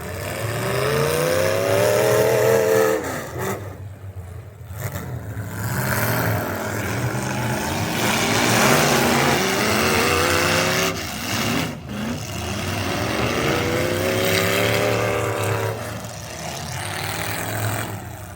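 Pulling truck engine running at full throttle, its pitch swelling up and falling back twice, with a heavy, loud roar in between.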